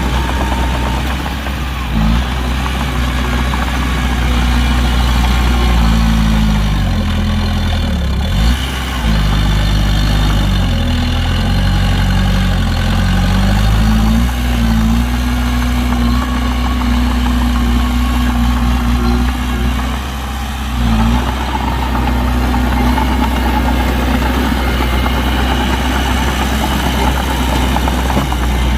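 Heavy diesel engine of construction machinery running hard, its pitch rising and falling several times in the first half as the throttle is worked, then holding steadier, with a few short knocks.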